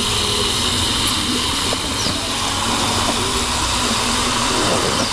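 Steady engine and road noise of a moving vehicle with a constant rushing hiss, faint voices under it.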